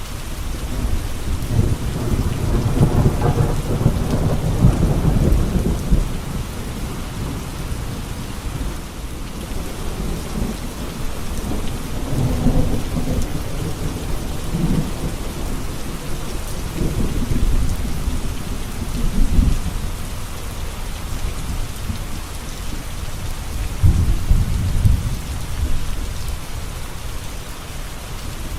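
Steady heavy rain with thunder rumbling several times: a long roll in the first few seconds, then shorter rumbles about midway, later on and near the end.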